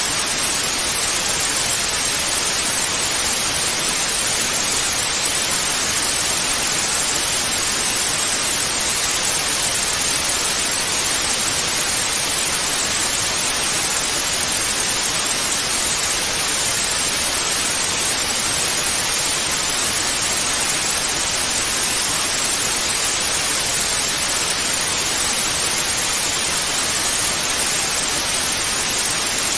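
Analog television static: a steady, even hiss of white noise, brightest in the high frequencies, with no change.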